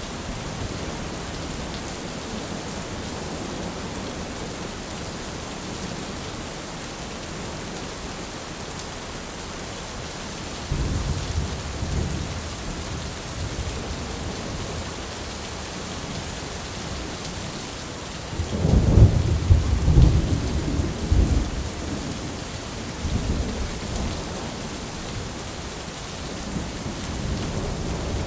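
Steady heavy rain with rolling thunder: a low rumble about a third of the way in, a louder, longer one about two-thirds in, and more rumbling building near the end.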